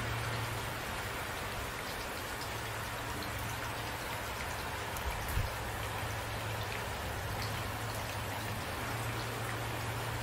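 Steady rain falling, a dense even patter with a faint low rumble beneath it. There is one brief low thump about halfway through.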